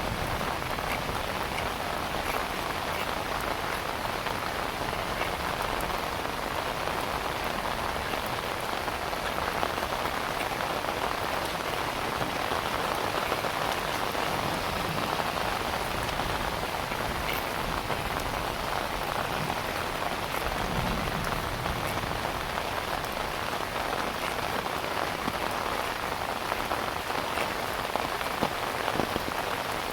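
Heavy rain falling steadily, a dense hiss with many small drops ticking on surfaces.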